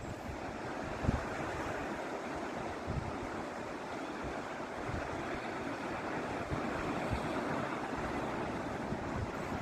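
Sea waves washing steadily onto a rocky shore, with wind buffeting the microphone in low thumps now and then.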